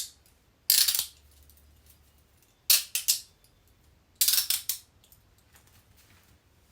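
Metal handcuffs rattling and clicking in three short bursts, at about one second, three seconds and four and a half seconds in, each a quick cluster of sharp metallic clicks and jingles.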